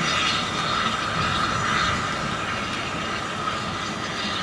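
Narrow-gauge train's carriages running away over the rails, a steady rolling clatter that slowly fades as the train pulls out.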